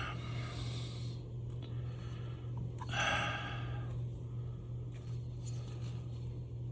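Steady low hum in the room with two soft breaths, the stronger one about three seconds in.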